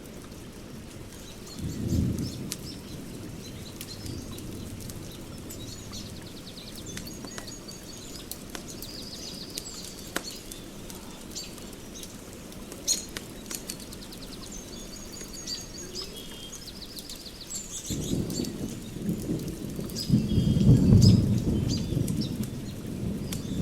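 Fire pit crackling with sharp pops, while small birds sing trilling calls. A low rumble swells briefly about two seconds in, then builds and stays loud near the end.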